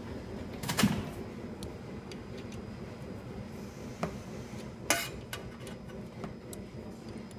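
Metal parts of a DPP88 blister packing machine's mould clinking and knocking as it is taken apart. There are three sharp clinks, the loudest about a second in and the others about four and five seconds in, with a few faint ticks over a steady low hum.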